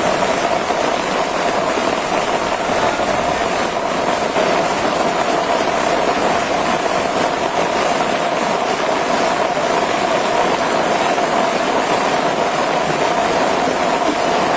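Loud, steady rush of flowing water, an even noise without breaks.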